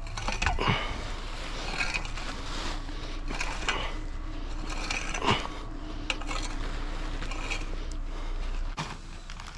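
A few sharp metallic scrapes and clanks, the loudest about five seconds in, over a steady low machine hum that stops near the end.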